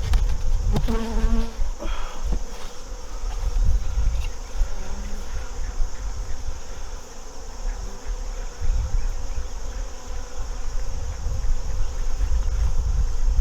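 Honeybees buzzing steadily around an open hive during an inspection, with a couple of sharp knocks about a second in.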